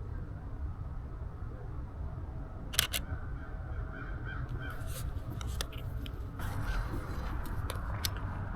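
Crows cawing a few times, with a camera shutter clicking sharply twice about three seconds in and a few softer clicks later, over a steady low rumble.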